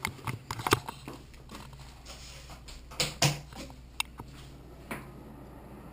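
Scattered light knocks and clicks in a small room, a cluster in the first second and a couple of sharper ones about three seconds in, over a low steady hum.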